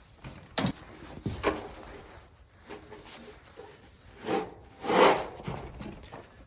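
Manure fork scraping and scooping through stall bedding in a few separate strokes, the loudest about five seconds in.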